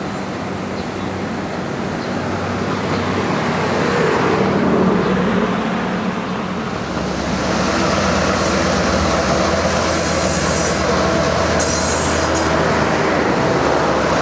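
Excursion train passing: a steady rolling rumble as the coaches cross a steel trestle. About seven seconds in it gives way to the low, steady drone of former Western Maryland EMD F7 diesel locomotives running past close by, with a few brief high hisses or squeals near the end.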